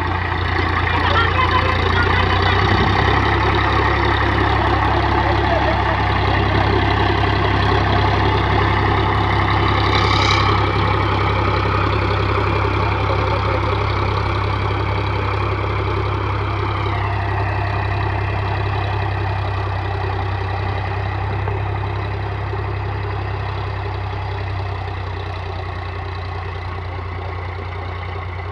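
Indo Farm 3035 DI tractor's diesel engine running steadily while ploughing. Its pitch drops about two-thirds of the way through, and it slowly grows quieter. There is one brief sharp click about a third of the way in.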